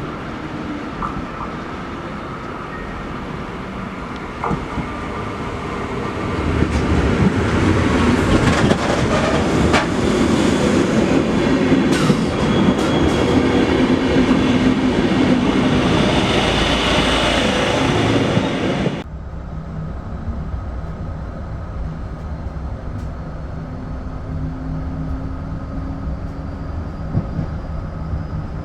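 Passenger train running on rails, wheels clattering over the track joints, growing louder as it comes close. About two-thirds through it cuts off suddenly to a quieter steady hum with a faint held tone.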